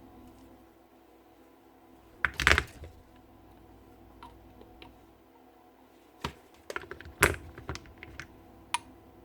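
Scattered clicks and knocks of small drill parts and tools being handled, with a louder clatter about two and a half seconds in and more around six to seven seconds in.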